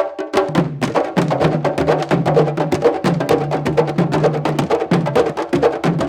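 Candombe drums playing together: a fast, dense rhythm of drum strokes mixed with sharp clicks.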